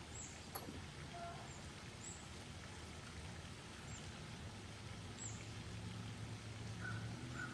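Quiet outdoor ambience: short, high, falling chirps come every second or so over a steady low hum, and the hum grows a little louder near the end.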